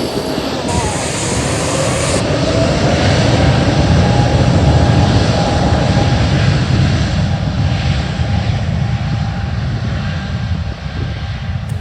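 Airliner engines running loud as a plane moves off past the spotters, a deep rumble that swells to a peak about four to five seconds in and eases off toward the end.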